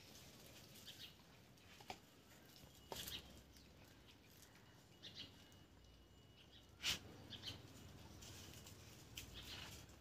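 Faint outdoor ambience with scattered, distant bird chirps and a few soft clicks, the loudest click about seven seconds in.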